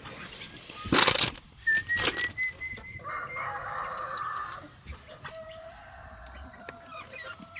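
Chickens in a poultry pen: a rooster crowing in long drawn-out calls, with a sharp burst of wing flapping about a second in.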